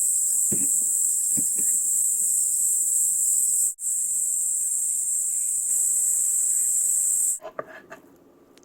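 Steady, high-pitched chorus of autumn insects with a few faint knocks early on. The chorus breaks off briefly a little after three and a half seconds, and cuts off near the end.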